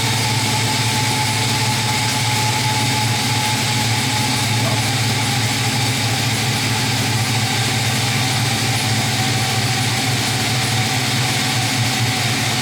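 5.3-litre LM7 V8 idling steadily through a Magnaflow 15896 exhaust, a low, even rumble. The idle has settled down after start-up, and a faint higher tone drifts slightly lower in pitch.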